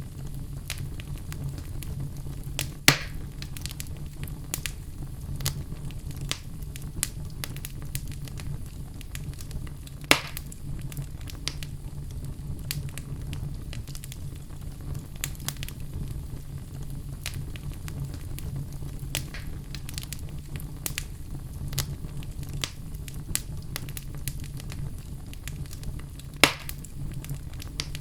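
Wood fire burning in a fireplace: a steady low rumble of flames with a stream of small crackles and pops, and three louder sharp pops from the burning logs, about 3, 10 and 26 seconds in.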